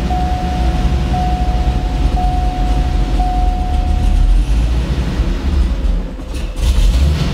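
Corvette's GM Gen III LS V8 with a mild cam idling at about 775 RPM, held there by hand on the throttle pedal because it stalls on its own base idle airflow. A dashboard warning chime dings about once a second until about four seconds in. Near the end the engine sound dips briefly, then comes back with a short burst.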